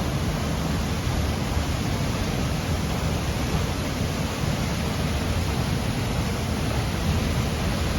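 Waterfall rushing: a steady, loud roar of falling water from a river running high after heavy rain.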